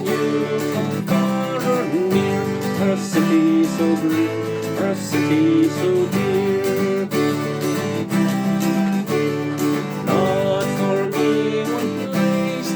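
Instrumental music: acoustic guitar strumming chords, with a melody line moving over it.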